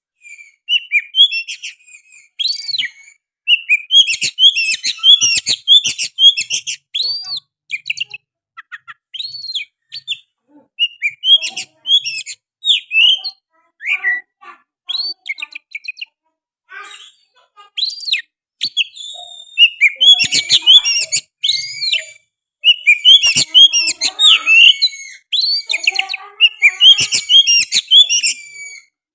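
Oriental magpie-robin singing a loud, rapid, varied song of whistles, trills and chirps, its phrases broken by a few short pauses. The song includes mimicked sooty-headed bulbul phrases.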